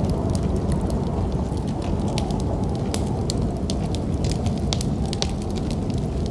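Wood fire in a fireplace crackling, with many small sharp pops and snaps over a steady low rumble.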